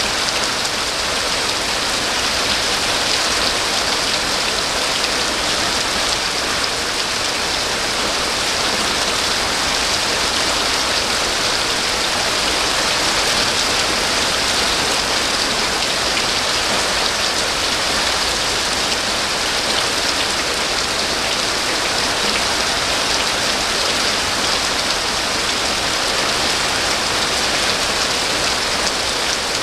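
Steady rain falling and pattering on surfaces, an even hiss of drops without letup.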